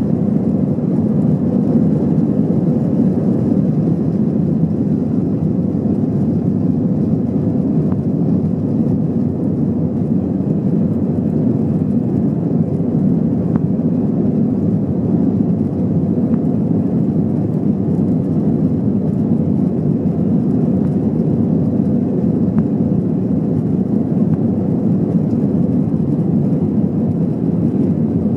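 Steady engine and airflow noise of an Airbus A321-200 airliner heard from inside the passenger cabin, even and unchanging throughout.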